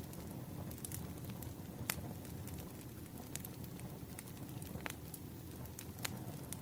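Campfire crackling: a steady low rumble of burning wood with scattered sharp pops, the loudest about two seconds in and another near five seconds.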